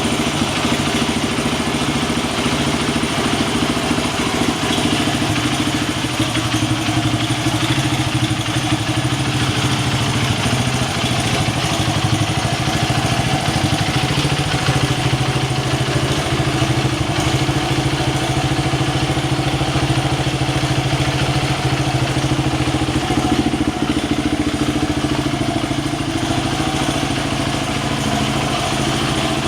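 Honda Ape AC16's single-cylinder four-stroke engine idling steadily through an aftermarket custom muffler.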